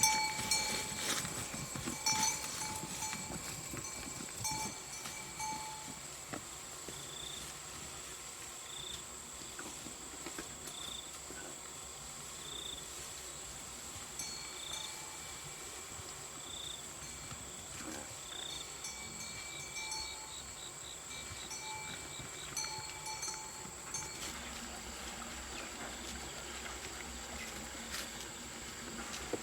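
Livestock bell clanking on and off over a steady high-pitched insect drone, and for a stretch in the middle a short high chirp repeats about every two seconds.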